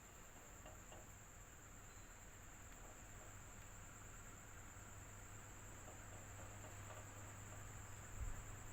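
Electric fan running steadily: a quiet, even rush of air over a low motor hum, with a thin steady high tone above it. There is a soft low bump near the end.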